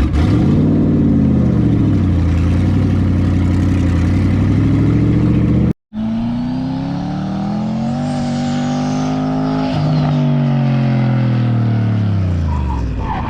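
Chevy 5.3-litre V8 in an LS-swapped BMW E36 being driven hard, its revs climbing and falling repeatedly. A sudden cut about six seconds in splits it into two stretches, the second a long, gradual climb and fall in pitch.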